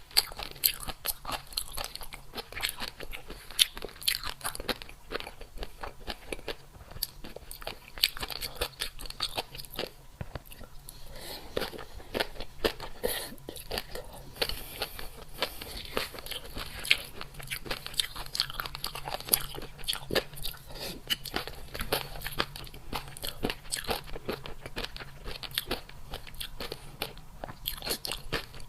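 Close-up crunching and chewing of crisp food: rapid, irregular crunchy bites and mouth sounds with no pause for long.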